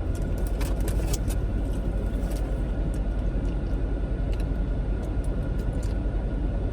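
Close-up chewing and mouth clicks of someone eating a Philly cheesesteak, mostly in the first couple of seconds, over a steady low rumble.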